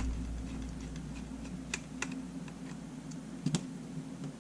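Light, scattered clicks and taps of a small screwdriver and tiny screws against the parts of a Sony A7 camera being taken apart, a few sharper clicks among fainter ticks, over a steady low hum.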